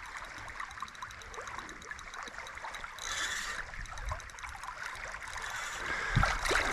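River water running and trickling in a steady rush, with a fine ticking through it and a few low thumps near the end.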